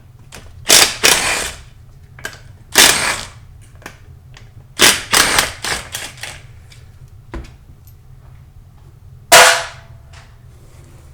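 Cordless power driver spinning transmission case bolts loose in several short, loud bursts, the last one about nine seconds in.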